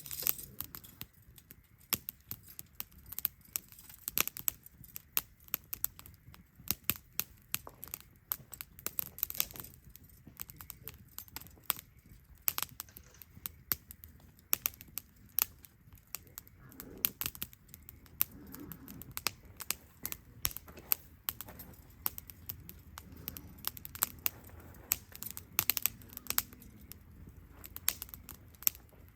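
Wood campfire crackling: irregular sharp pops and snaps, several a second, some much louder than the rest.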